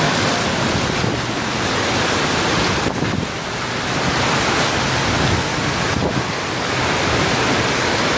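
Strong storm wind with heavy rain: a loud, steady rushing that swells and eases slightly, with the wind buffeting the microphone.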